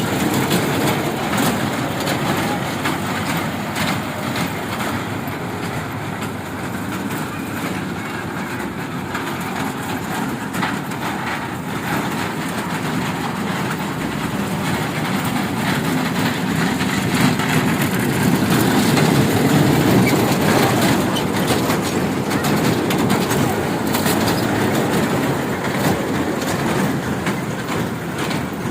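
Train running along the track, heard from aboard: a steady rumble with the wheels clattering over the rails.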